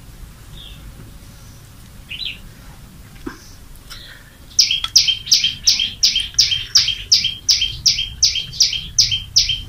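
A bird calling: a few faint chirps, then about halfway through a loud, fast run of high falling chirps, about three a second, that keeps going.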